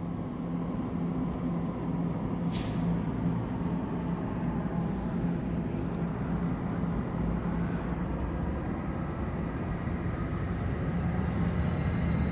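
Diesel engines of an ALP45DP dual-mode locomotive running in diesel mode with a steady drone, a short air hiss about two and a half seconds in, and the sound growing louder toward the end.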